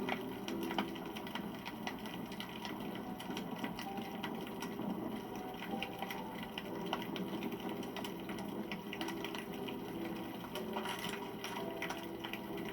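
Wood campfire burning, a steady rush of flame with frequent small pops and crackles from the burning wood.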